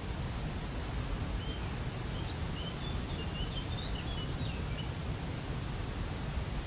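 Steady rushing of a waterfall, with a songbird giving a quick run of short high chirps from about a second and a half in until near the end.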